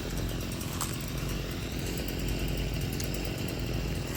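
A small engine running steadily at a constant speed, with a rapid even pulse.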